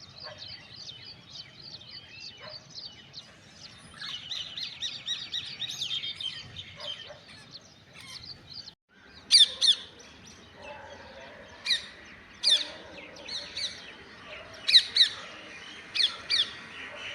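Birds chirping in quick repeated notes. After a break about nine seconds in come loud, sharp calls, mostly in pairs, several times.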